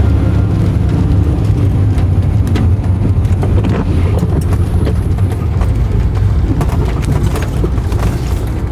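A car driving, with a steady low road and engine rumble and scattered light clicks and knocks.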